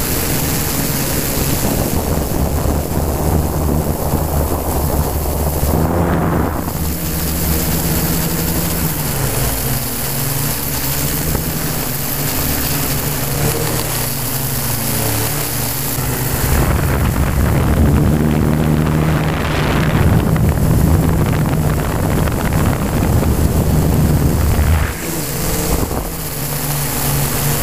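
Yuneec Q500 Typhoon quadcopter's electric motors and propellers humming, the pitch stepping up and down as the motors change speed, with wind rushing over the microphone.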